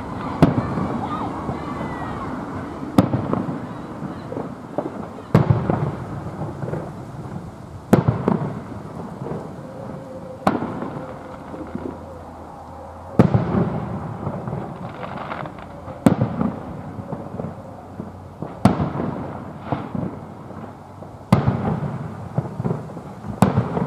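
Aerial fireworks shells bursting, with a sharp bang about every two and a half seconds. Each bang is followed by a rolling rumble and crackle.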